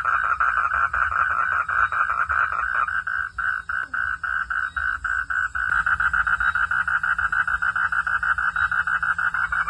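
Frogs calling in a fast, continuous train of rasping pulses. For a couple of seconds in the middle the pulses thin out and slow, then they pick up fast again.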